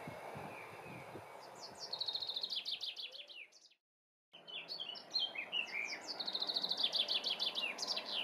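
A songbird singing two songs, each a fast trill of repeated high notes, with a half-second break between them.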